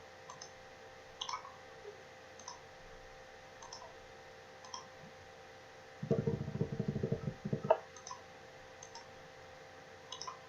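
Computer mouse clicks, about a dozen single clicks spaced irregularly, a second or so apart. About six seconds in there is a brief low rumble lasting a second and a half, then a sharper click. A faint steady hum runs underneath.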